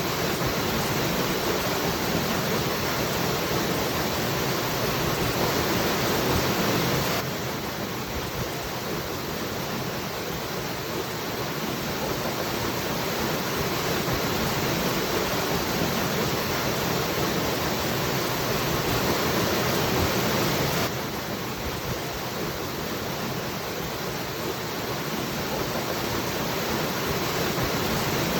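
Waterfall rushing as a steady, even roar of falling water. The level drops suddenly twice, about fourteen seconds apart, and builds back slowly each time.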